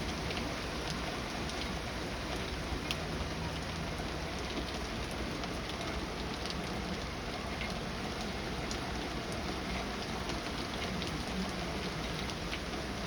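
Heavy rain falling steadily, a dense even hiss with scattered individual drops ticking on a nearby surface.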